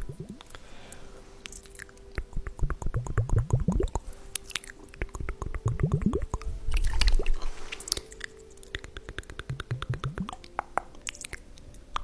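Small liquid-filled glass ampoules handled close to the microphone: clusters of rapid wet clicks that rise in pitch, coming every two to three seconds.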